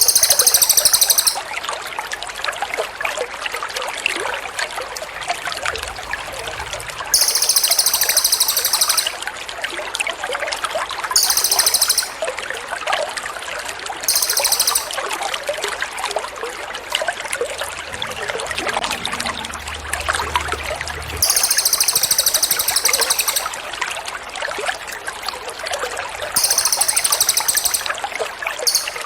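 Steady trickling water with a songbird's very high, rapid trills coming in short bursts of one to two seconds, six or seven times: recorded bird-song tutor (masteran) audio for training songbirds like magpie-robins and shamas.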